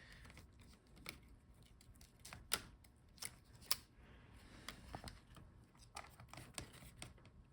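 Faint, scattered small clicks and taps of laptop internals being handled: plastic connector clips and the motherboard being moved and lifted out of the chassis.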